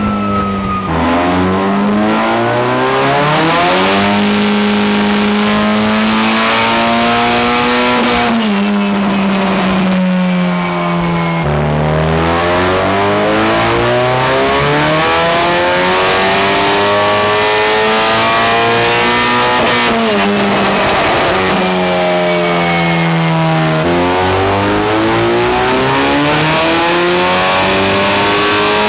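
Turbocharged Nissan SR20DET four-cylinder in an AE86 running on a chassis dyno, making three long pulls, each rising steadily in revs for about eight seconds before dropping back. These are runs for setting up boost control after a new rear turbo exhaust housing was fitted.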